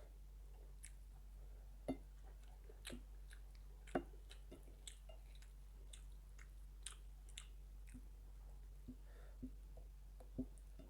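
Close-up chewing and wet mouth sounds of a person eating rice with fried fish and chicken. Soft irregular clicks and smacks come throughout, with a few louder ones about two seconds in, four seconds in and near the end.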